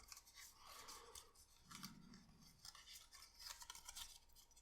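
Faint crisp rustling and small clicks of thin card being handled and creased into folds.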